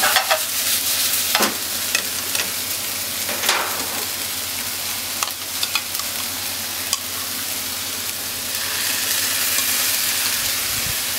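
Sliced pork and onion sizzling steadily in a frying pan, with a spatula scraping and knocking against the pan now and then through the first several seconds, then only the sizzling.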